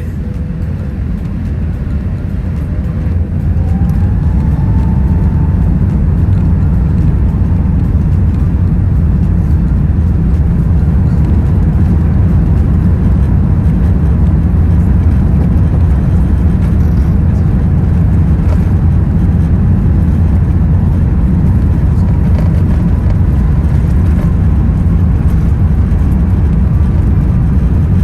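Airbus A380 cabin noise, heard from beside the wing, as the engines spool up over the first few seconds, then a loud, steady low rumble with faint rising whines: the takeoff roll.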